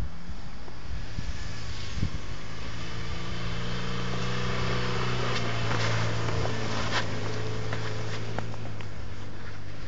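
Car engine running under throttle as a VW Passat estate drifts on snow, its note rising a little in the middle, with a hiss that swells partway through.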